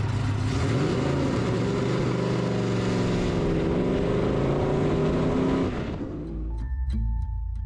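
Car engine running at speed with a rushing noise of wind and road, its pitch dipping and rising about halfway through. It cuts away about six seconds in to a low rumble.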